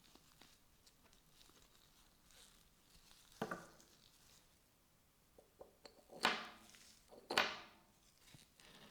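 Three sharp knocks of hard objects, each with a short ringing tail; the second and third come about a second apart and are the loudest.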